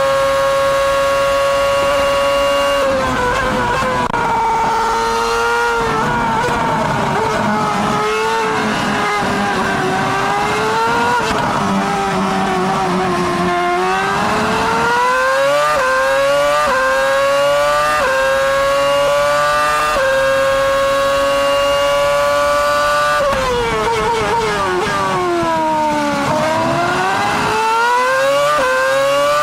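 Onboard sound of a 2006 Ferrari Formula 1 car's 2.4-litre V8 at racing speed. It holds a high steady note at full throttle, then drops through downshifts under braking about three seconds in. Past the middle it climbs again through a run of quick upshifts, each a rising sweep cut short by the next gear, falls once more under braking, and rises through the gears near the end.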